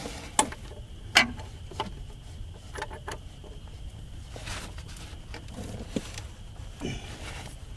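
Scattered sharp metallic clicks and knocks of a socket and wrench being fitted to and worked on the crankshaft bolt of an Oldsmobile 394 Rocket V8. The engine is seized and does not turn.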